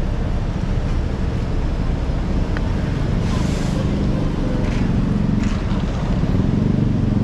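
Road traffic: vehicle engines running steadily, with a short hiss about three seconds in and the engine sound growing heavier near the end.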